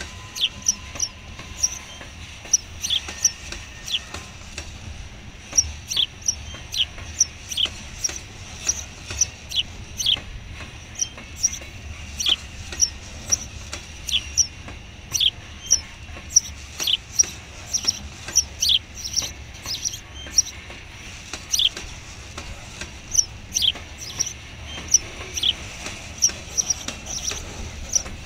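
Long freight train of covered hopper cars rolling slowly past with a low rumble. Over the rumble come many short, high-pitched squeaks, two or three a second at irregular spacing, from the wheels against the rails.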